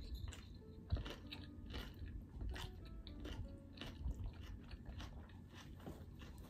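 Close-up chewing of a mouthful of salad: irregular crisp crunches and wet chewing, with a fresh bite taken about four seconds in.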